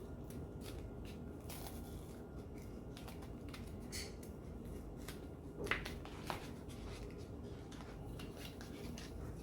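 Faint paper rustling and a few soft clicks from a Pillsbury crescent roll tube's wrapper being peeled and the tube opened. The clicks are a little louder about four seconds in and twice around six seconds in.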